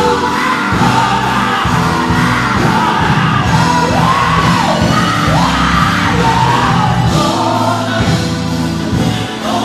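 Live gospel music: a band with bass and drums playing under a lead singer, whose voice swoops up and down in pitch about halfway through, with shouted ad-libs.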